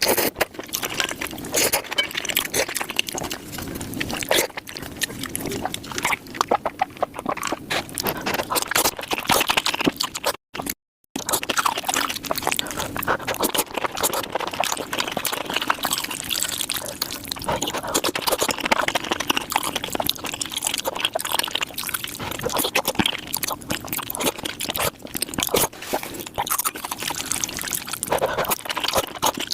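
Close-miked eating sounds sped up five times: a dense, rapid run of wet chewing, smacking and slurping clicks. The sound drops out completely for about half a second a little over ten seconds in, then carries on.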